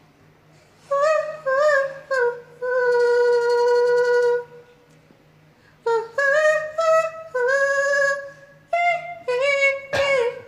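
A woman singing alone in a high voice, without accompaniment, in phrases of held and gliding notes with short breaks between them; one long steady note is held about two to four seconds in.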